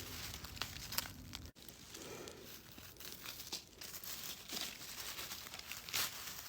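Irregular rustling and crinkling with short sharp snaps, from dry leaf litter and undergrowth being pushed aside and handled while mushrooms are picked by hand.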